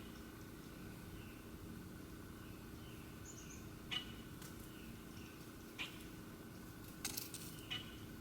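Wild birds calling: a handful of short, sharp chirps from about four seconds in, with faint soft descending notes between them, over a steady low background rumble.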